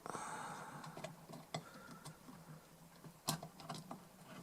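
Light clicks and taps of small metal parts being handled, washers being fitted onto a connector, with rustling in the first second and a sharper click about three seconds in.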